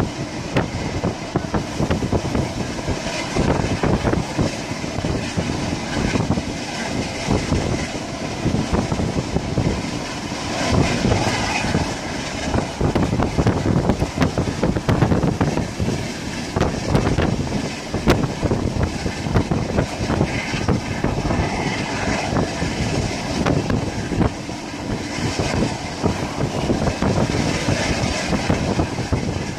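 Passenger train carriage running at speed, heard from inside: a steady rumble with constant clattering of wheels on the rails.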